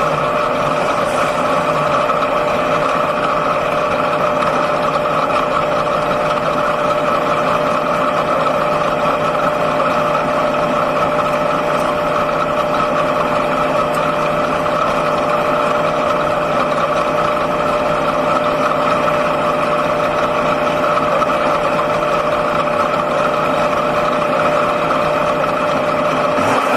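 Six-cylinder speedway sedan engine idling steadily, heard from inside the car's cabin.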